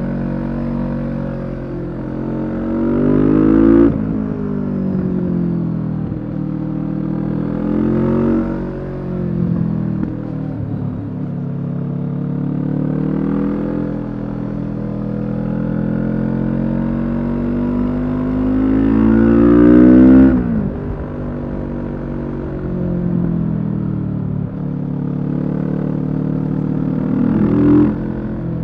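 Kawasaki Z650's parallel-twin engine through a Leo Vince EVO carbon exhaust, accelerating on the road: the revs climb and then drop sharply several times, with the longest and loudest climb about two-thirds of the way through.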